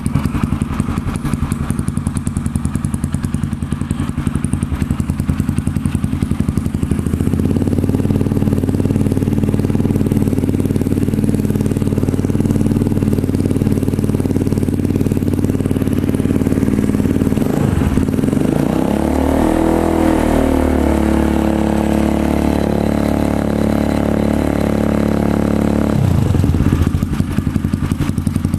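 Honda CRF's single-cylinder engine breathing through a Triton CR-5 stainless-steel full-system aftermarket exhaust: idling, then held at higher revs from about a quarter of the way in. Past the middle the revs dip and climb again to a higher steady pitch, then fall back to idle near the end.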